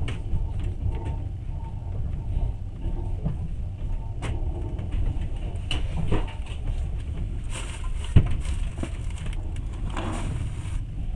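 Passenger train carriage in motion: a steady low rumble with scattered knocks and rattles, and one sharp knock about 8 seconds in.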